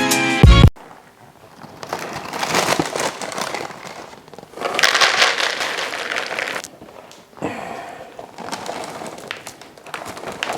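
Music cuts off just under a second in, then irregular crinkling and crackling comes in several spells.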